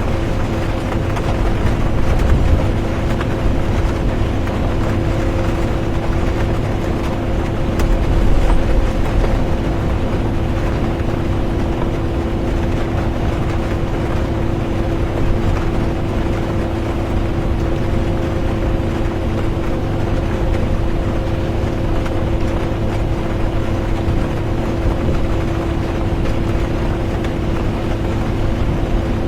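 Bus interior while driving: a steady low engine and road rumble with a constant droning hum, and rain noise over it.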